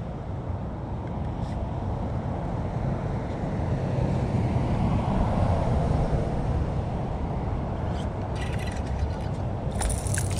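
Steady low rumble, a little louder in the middle, with a few light clicks and a burst of hiss near the end.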